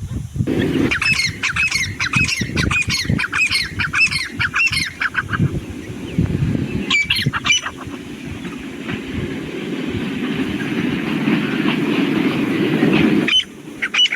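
Grey francolin calling: a fast run of loud, repeated, harsh notes for about five seconds, then a couple more calls a little later. After that, several seconds of steady rough noise that cuts off near the end.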